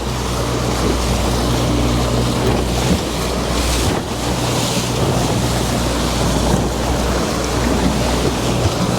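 Small fishing boat's motor running steadily at trolling speed, a low even hum under wind buffeting the microphone and choppy water washing around the hull.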